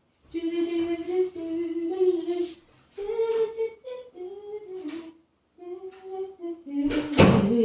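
A woman humming a tune in three short phrases of held notes that step up and down in pitch, with a louder, breathier note near the end.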